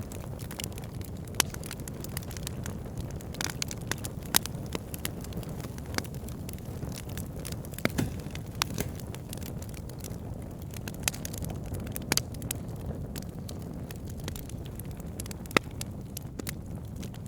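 Logs burning in a wood fire, crackling with frequent irregular sharp pops over a steady low rumble of flames.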